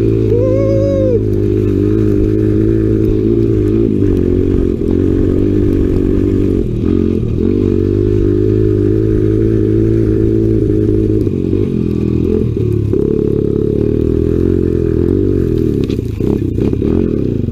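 Small Honda single-cylinder four-stroke off-road engine running under way, its pitch wavering with the throttle, with a brief rise and fall in revs about half a second in. A few short knocks near the end.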